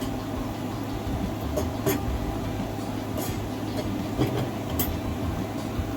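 Light clicks and taps from craft materials being handled, a few times over a steady low background hum.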